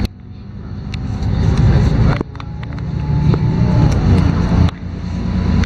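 LiAZ-5292.22 city bus's diesel engine accelerating, heard from inside the cabin. The engine note builds for a couple of seconds, then drops sharply, about two and again four and a half seconds in, as the automatic gearbox shifts up.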